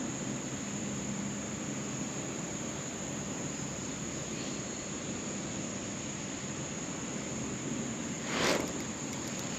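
Insects trilling in one steady high-pitched tone over a constant background hiss, with a single brief whoosh about eight and a half seconds in.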